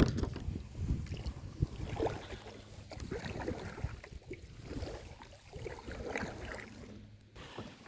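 Kayak on the water: irregular small knocks and splashes from the paddle and hull over a haze of water and wind noise, growing quieter toward the end.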